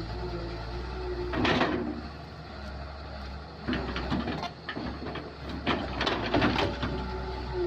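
Kobelco excavator's diesel engine running steadily, with louder clattering bursts of digging about a second and a half in, around four seconds, and again around six seconds.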